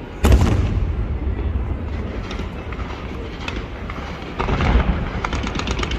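Fireworks display: a loud bang about a quarter second in, followed by a long, low rolling rumble. About four and a half seconds in comes a rapid crackle of many small reports.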